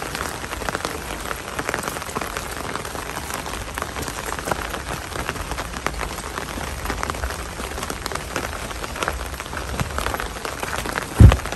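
Steady rain falling, a continuous hiss dotted with many crisp drop taps. A single loud, low thump comes a little before the end.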